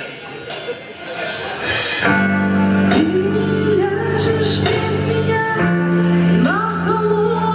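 A live band playing a song, with drums and guitar. Sustained chords come in about two seconds in, and a singer's voice joins about a second later.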